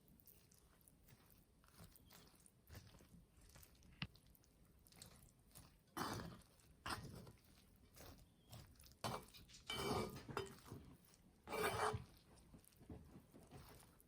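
Tableware being handled at a meal: a few short knocks and scrapes of dishes and utensils, the loudest about halfway through and near the end.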